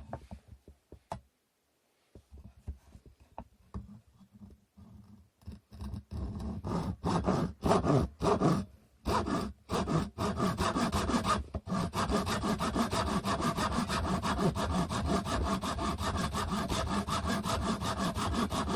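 A handsaw cutting through a wooden stick: a few light clicks, then short, halting starting strokes that settle about twelve seconds in into steady, quick back-and-forth sawing.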